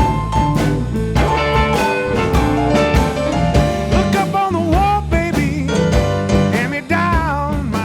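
Blues band playing: drums and bass under a lead line of bent, wavering notes.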